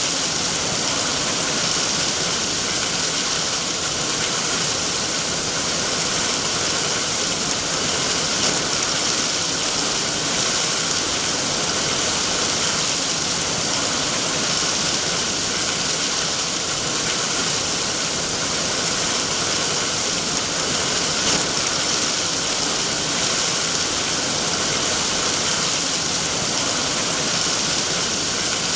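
Steady heavy rain falling without a break, an even hiss strongest in the high range.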